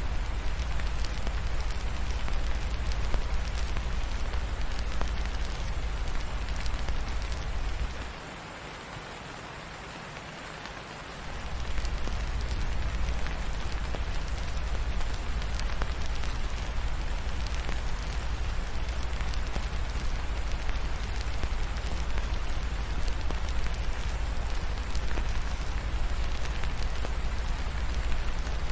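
Steady rain falling on a surface, mixed with the crackle of a fireplace fire, over a deep low rumble. The rumble drops out for about three seconds around a third of the way through, leaving only the rain and crackling.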